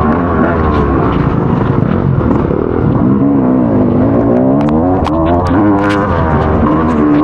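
Motocross bike engine revving up and down as it is ridden, its pitch rising and falling several times, with scattered sharp clicks.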